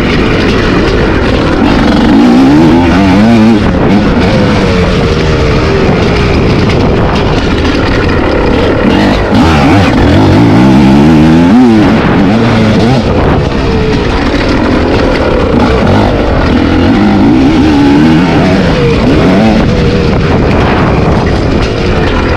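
Dirt bike engine revving hard while riding, its pitch climbing and dropping again and again with the throttle.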